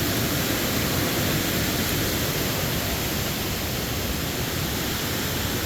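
Steady, even rush of a large waterfall on the Falling Water River, with no breaks or changes.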